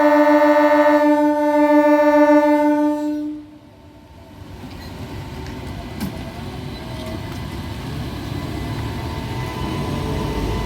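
MEMU electric train's horn sounding one long, steady blast that cuts off about three seconds in, followed by the low rumble of the train running, growing steadily louder as it nears.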